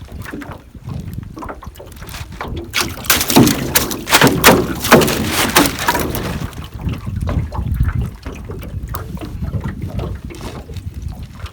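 Water splashing and sloshing around a small boat as a gill net is hauled in. A run of loud splashing comes from about three to six seconds in.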